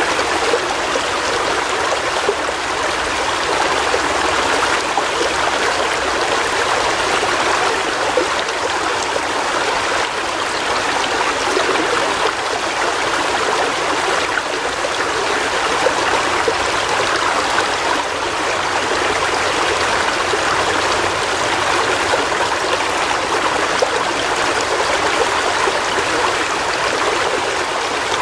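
River water flowing and splashing over stones, a steady, even rush.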